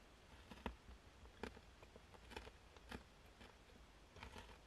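Faint, irregular crunches and clicks, about five of them, from someone biting and chewing a chocolate-coated raspberry.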